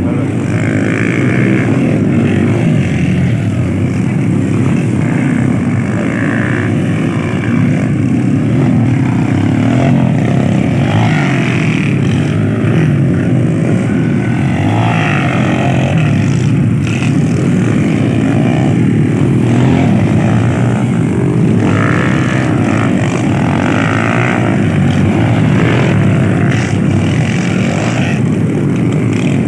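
Motocross dirt bike engines running and revving, rising and falling in pitch over a steady low rumble.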